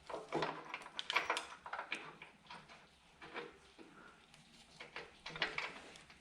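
Loose metal parts and hardware clinking and clanking together as they are handled and set down, in a string of irregular knocks with a few louder clanks about a second in and again near the end.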